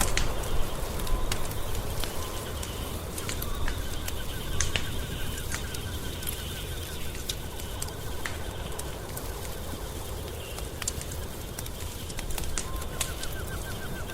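Wood fire crackling, with scattered sharp pops over a low steady rumble. A rapid trill of ticks comes twice, around four seconds in and near the end.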